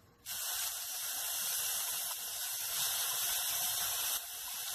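Chopped onion and garlic hitting hot olive oil in a stainless steel saucepan and sizzling: a steady frying hiss that starts suddenly about a quarter second in.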